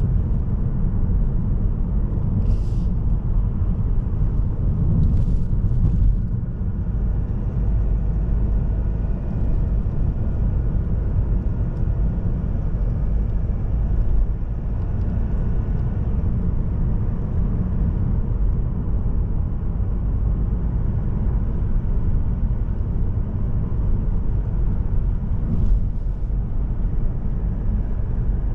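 Mazda3 sedan with the SKYACTIV-D 1.8 diesel driving along the road: a steady low rumble of engine and tyre noise, with a few brief faint ticks.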